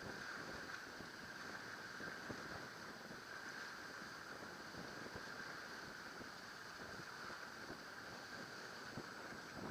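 Water splashing and rushing along the hull of a sailing boat under way, a steady hiss broken by many small irregular splashes.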